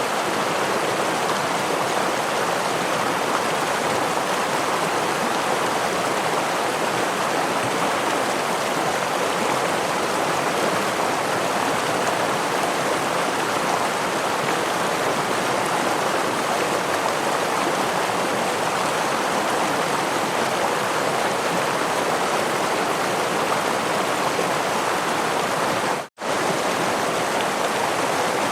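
Steady rushing of a forest stream spilling over a small waterfall. Near the end it cuts out to silence for a split second, then resumes unchanged.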